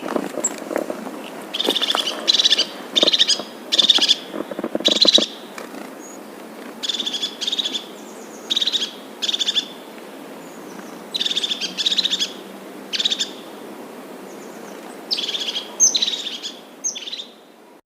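A bird calling over and over: short, high calls come in quick clusters of a few at a time, with pauses of a second or two between the clusters, over a steady background hiss.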